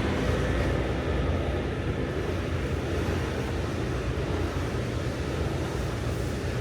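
Semi-truck's diesel engine running steadily with road and cab rumble as the tractor-trailer drives.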